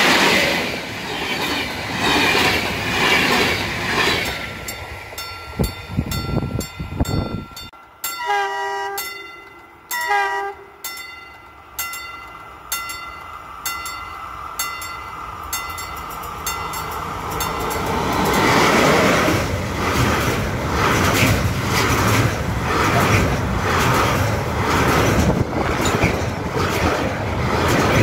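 An electric passenger train passing close by, its wheels and coaches rushing past and fading away. Then two short train horn blasts, about a second and a half apart, from an approaching train, followed by a container freight train passing with a steady, rhythmic clatter of wheels over the rail joints.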